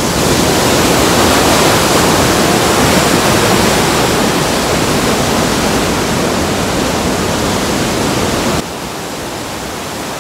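Rhine Falls: a loud, steady rush of falling water. About eight and a half seconds in, it drops suddenly to a quieter, steady rush.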